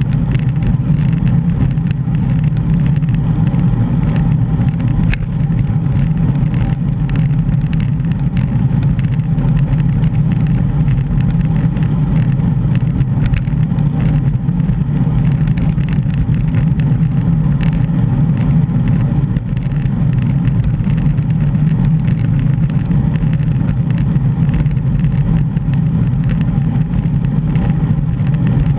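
Steady low rumble of wind buffeting a GoPro's microphone while cycling, with road noise, unbroken throughout.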